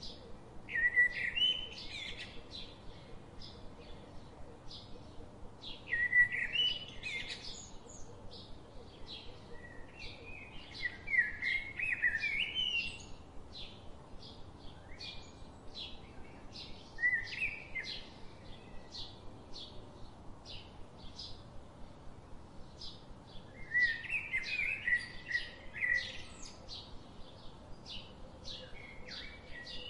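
Songbirds singing in short warbling bouts every few seconds, over a steady run of high ticks about two or three a second.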